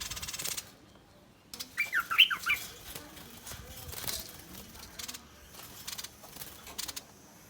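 A bulbul giving harsh, rasping threat calls: a scratchy rasp at the start, a quick run of sharp chirps about two seconds in, then short rasping clicks.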